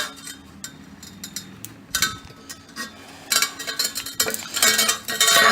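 Metal exhaust clamps and pipe parts clinking and rattling as they are handled and tried for fit, with a few separate clinks followed by two longer stretches of jangling near the end.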